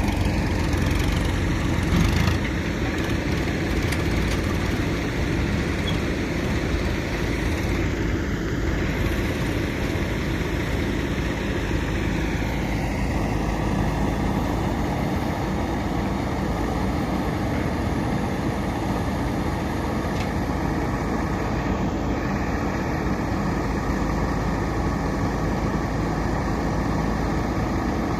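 JCB 3DX Super backhoe loader's diesel engine running steadily, with one short louder bump about two seconds in.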